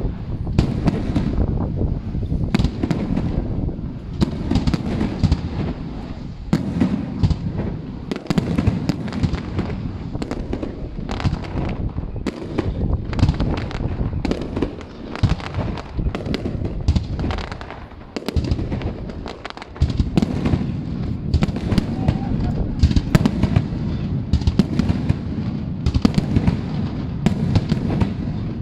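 Fireworks display: a dense, continuous barrage of aerial shell booms and crackling reports overlapping one another, with a short lull about two-thirds of the way through.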